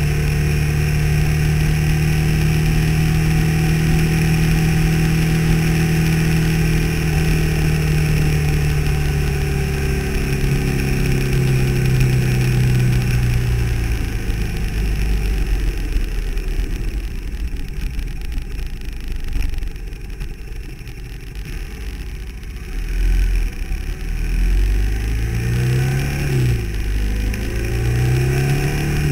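Car engine heard from inside the cabin, pulling steadily at cruising speed with road noise. Midway it eases off and goes quieter for several seconds, then revs up and back down a few times near the end.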